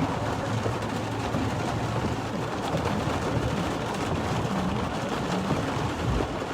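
Steady rain falling on a moving car, mixed with tyres hissing on the wet road, heard from inside the car.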